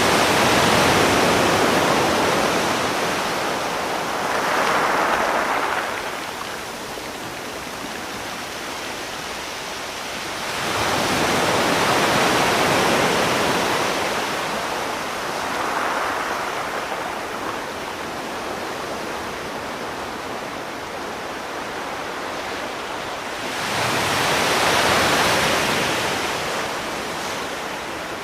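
Sea waves breaking and washing onto a shore, rising and falling in slow surges about every eleven or twelve seconds, each big wave followed by a smaller one.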